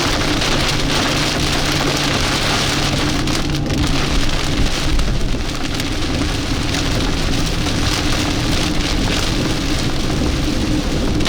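Rain falling on a car while it is driven, over a steady hum of engine and road noise.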